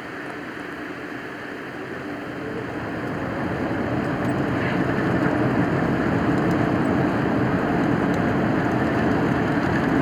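A Boeing 787-9's GE GEnx-1B jet engines heard from inside the cabin, growing louder over a few seconds as they spool up to takeoff thrust, then holding a steady, loud noise at the start of the takeoff roll.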